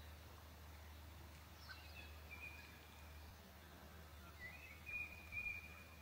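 A songbird whistling two long, steady notes. The first comes about two seconds in, after a short falling note. The second slides up into a longer, louder held whistle near the end. A faint, steady low hum runs underneath.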